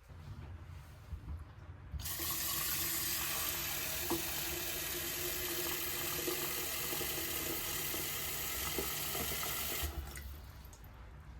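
Water tap running in a steady stream for about eight seconds, turned on about two seconds in and shut off shortly before the end.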